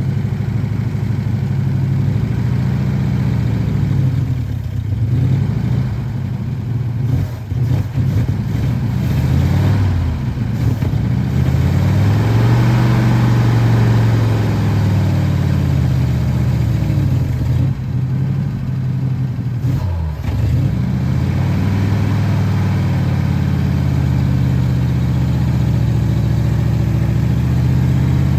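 1949 Ford's 239 cubic-inch flathead V8 running while the car is driven, its engine speed rising and falling several times, highest about halfway through.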